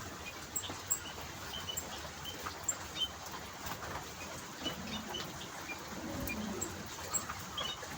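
Zebra finches calling in an aviary: short, sharp high chirps scattered throughout, with a lower call around the middle.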